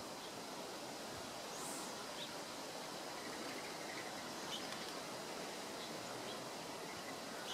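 Steady background hiss with a few faint, short, high chirps from small birds scattered through it.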